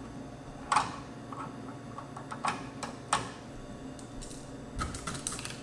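Irregular sharp clicks and light taps of small metal screws and hand tools being handled, the loudest just under a second in and a quick run of them near the end, over a steady low hum.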